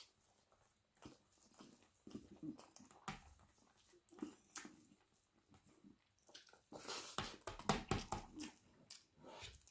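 Close-miked eating sounds: wet chewing with scattered short clicks, busiest about seven to eight and a half seconds in.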